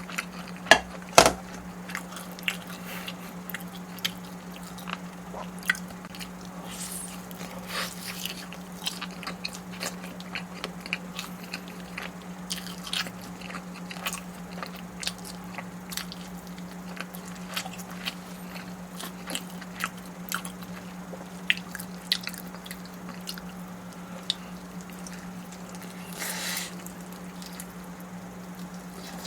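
Close-miked eating: biting and chewing with many small wet clicks and smacks, several louder bites about a second in and a brief rustling hiss near the end. A steady low electrical hum runs underneath.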